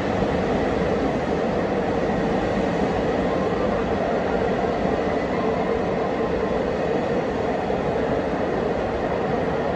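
New KiHa 261 series 1000 diesel railcars being hauled as a delivery train, rolling past on the rails in a steady rumble of wheels as the train pulls away.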